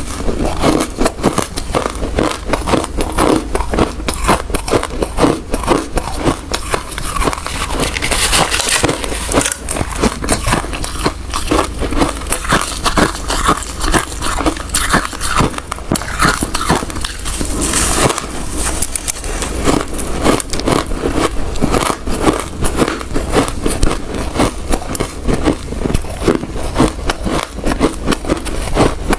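Hard ice being bitten and chewed close to the microphone: a dense, continuous run of crunches and crackles, with a few louder, sharper bursts of crunching about eight and eighteen seconds in.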